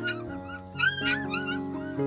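Young puppies giving short, high-pitched whimpers and squeals, three or four in quick succession, over background music of slow held chords.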